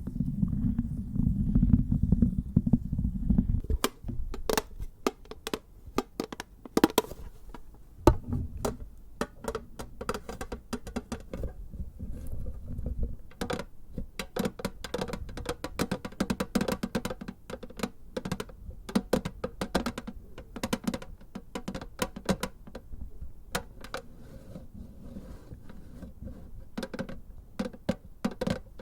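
Fingertips and nails tapping rapidly on a metal can container, many quick sharp taps with a light ringing. For the first four seconds there is instead a low rumbling from handling a small case made of fused plastic iron beads.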